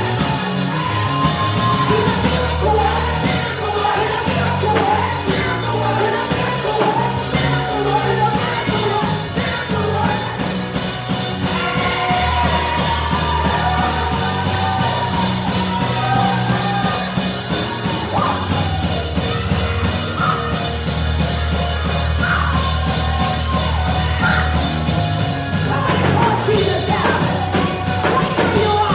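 Church praise band playing with bass, keyboard and drums while singers carry a sung melody.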